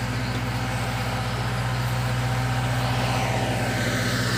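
Fish-feed pellet machine running steadily under its D4 drive engine, a steady engine drone with an even, rapid pulse.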